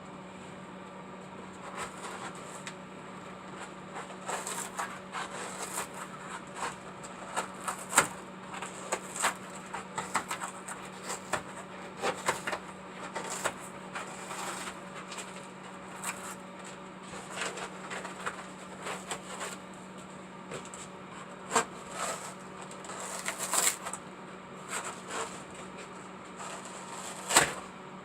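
Irregular clicks, taps and knocks of hand work on craft pieces, several a second at times, with a steady low hum underneath.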